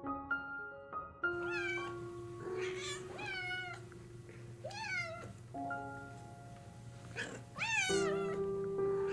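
Domestic cat meowing repeatedly: about five separate meows, a second or two apart, starting about a second in, over background keyboard music.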